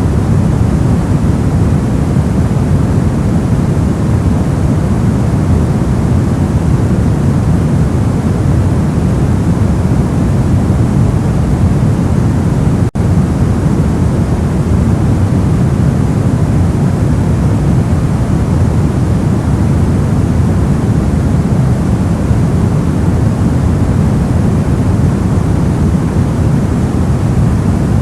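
Steady generated noise, strongest in the low range so it sounds like a deep hush rather than a bright hiss, with a split-second dropout about halfway through.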